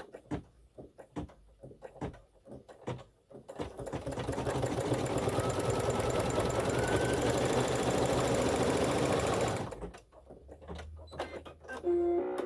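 Embroidery machine stitching out a small design at speed: a few light clicks, then a fast, steady run of stitches for about six seconds that stops abruptly, followed by more scattered clicks and a brief tone near the end.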